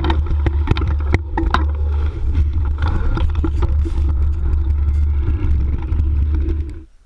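Riding noise of an electric full-suspension mountain bike on a forest trail: heavy wind rumble on the microphone with irregular rattles and knocks from the bike over rough ground. It cuts off abruptly near the end.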